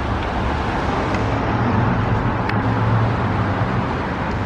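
Street traffic: steady road noise with the low hum of a vehicle engine, strongest around the middle.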